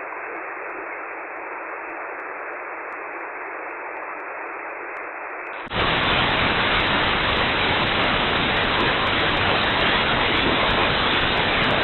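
Radio static hiss from a web SDR receiver on the 11 m CB band, first heard through a narrow sideband filter. A little under six seconds in, it changes abruptly to a louder, fuller hiss as the receiver is switched to AM.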